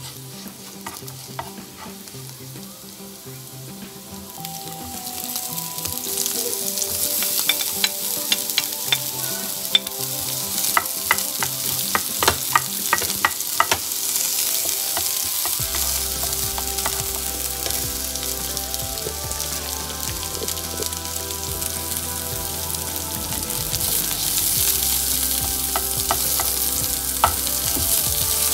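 Ginger and sliced red onion sizzling in hot oil in a nonstick frying pan. The sizzle grows louder about five seconds in, as the onion goes into the pan. Plastic tongs click and scrape against the pan as the onion is tossed, most often in the first half.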